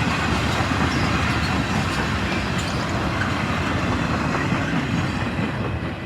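A passing train rolling by on the rails, a steady noise strongest in the low end, starting to fall off in the last moment.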